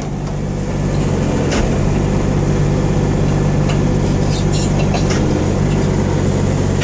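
Hitachi ZX35U mini excavator's diesel engine running steadily while the hydraulics are worked. It gets a little louder about a second in.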